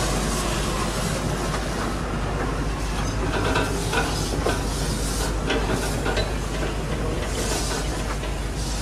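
Train rolling along a rack railway: a steady rumble of the wheels on the track, with a run of sharp clicks from the wheels on the rails in the middle.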